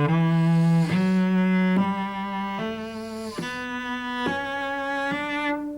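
Solo cello playing a slow scale passage across strings, evenly bowed notes of a bit under a second each, about seven in all; the last note stops just before the end.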